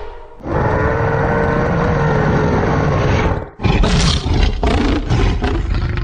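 Woolly mammoth roar sound effects: one long roaring call with a steady pitched tone lasting about three seconds, then after a short break a second, rougher roar that comes in rapid pulses.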